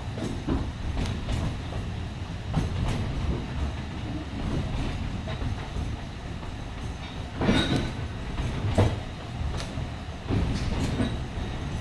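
Alishan Forest Railway narrow-gauge train running, with a steady low rumble and wheels knocking over rail joints. A louder burst with a brief high wheel squeal comes about seven and a half seconds in.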